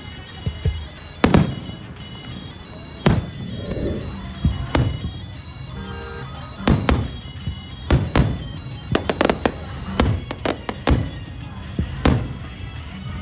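Aerial firework shells bursting in a string of sharp bangs, a few seconds apart at first and then in a quick cluster of bangs in the later half. Music plays underneath.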